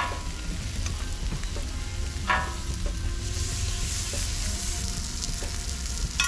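Striped bass fillets and shishito peppers sizzling on a screaming-hot flat-top griddle, with a steady low rumble underneath. Metal utensils clink sharply against the griddle three times, and the sizzle grows brighter about three seconds in, as butter goes under the fish skin.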